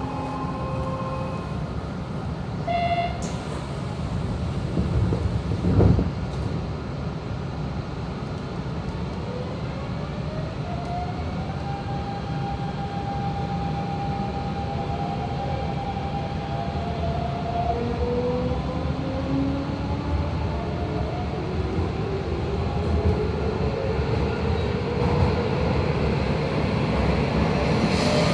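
Hanshin 5500 series electric train's Mitsubishi GTO-VVVF inverter and traction motors pulling away: a brief chime and a thump in the first few seconds, then whining tones that climb in pitch in steps over the rumble of running, as the train accelerates.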